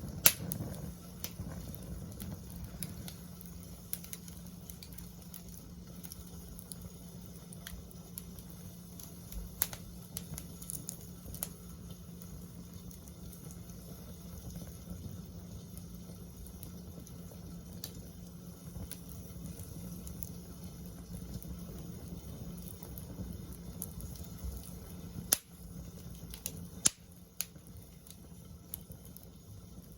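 Wood campfire burning in a fire pit, crackling with scattered sharp pops, the loudest just at the start and twice about 25 and 27 seconds in, over a low steady rumble.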